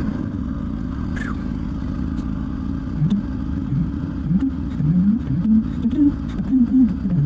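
Honda XR650R's big single-cylinder four-stroke engine under way, a steady low rumble. From about three seconds in it revs up and eases off again and again as the bike accelerates.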